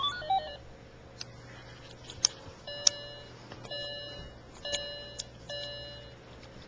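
Electronic beeping: a short chord-like tone sounds in four half-second bursts, after a few sharp clicks.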